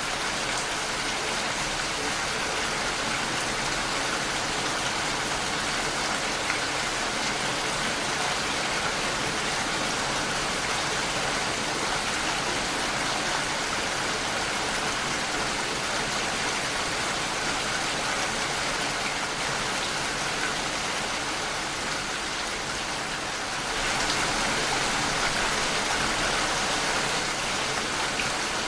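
Steady rain against a window pane: a dense, even hiss of drops, growing a little louder near the end.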